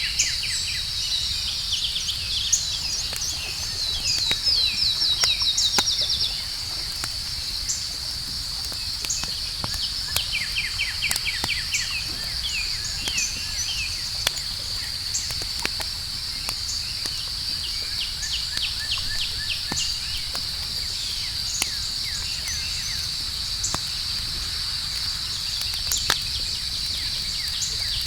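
Outdoor night ambience: a steady high insect drone, with bird chirps coming in quick runs, loudest a few seconds in. Scattered sharp crackles from a campfire run through it.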